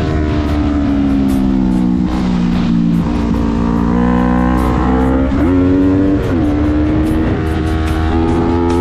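Yamaha R3 parallel-twin engine running at road speed through bends. Its pitch sags over the first few seconds, then climbs again, with a few short dips and rises. Wind rushes over the microphone throughout.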